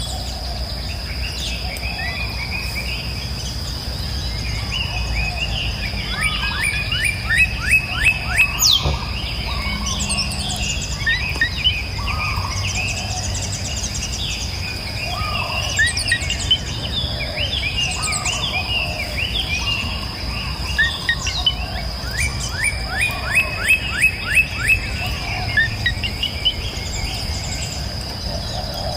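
Several songbirds chirping and singing over a steady high insect buzz, with a low steady background rush. Twice, a bird sings a fast run of repeated falling notes.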